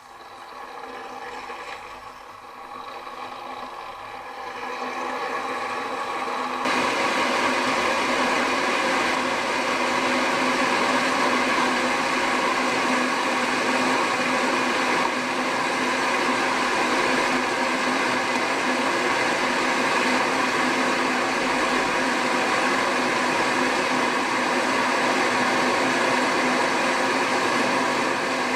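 Next Dial 2.2 kW electric kettle heating a full 1.7 litres of water, a steady hissing rumble as the element works toward the boil. It grows louder over the first several seconds, then holds steady.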